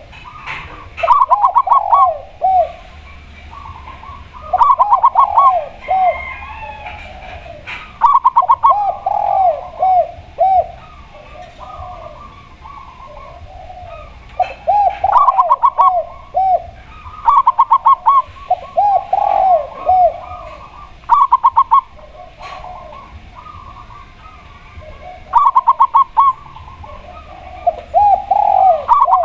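Spotted dove and zebra dove cooing in repeated phrases. Each phrase is a quick run of short notes followed by several lower, slower hooked coos, and a new phrase comes every three to four seconds.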